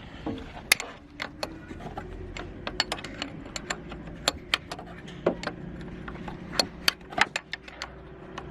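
Irregular sharp metallic clicks and clinks of metal parts or tools being handled, over a steady low hum.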